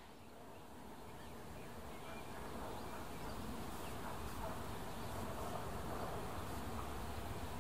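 Distant passenger train running past across an open field: a faint low rumble that grows steadily louder, with small bird-like chirps over it.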